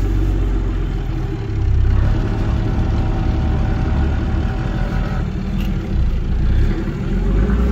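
Off-road 4x4's engine running steadily at low speed, with the level rising about one and a half seconds in. A faint steady whine sits over it for a few seconds.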